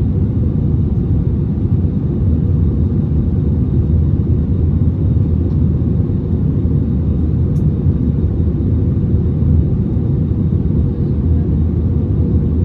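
Airbus A320neo cabin noise during the takeoff climb: a steady low rumble of the engines and rushing air, heard from an economy seat.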